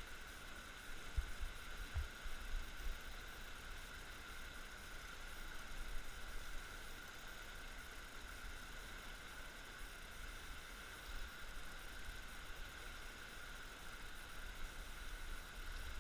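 Quiet outdoor ambience aboard a small folding kayak on a river: a steady faint hiss with a constant thin high tone, and a few low bumps in the first few seconds.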